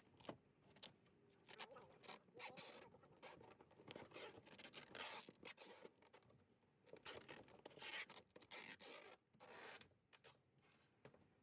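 Faint, irregular scraping, rubbing and rustling of belongings and packing materials being handled, with several longer tearing swishes about halfway through and again later.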